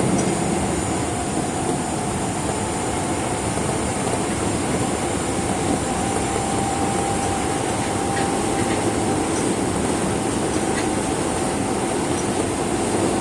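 Osaka Metro 22 series subway train running between stations, heard from inside the car: steady rail and running noise with a thin, held tone underneath.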